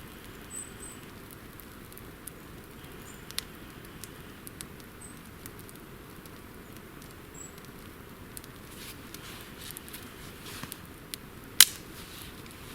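Scattered small crackles and clicks of damp twigs and wood at a campfire being lit, with one loud sharp snap near the end.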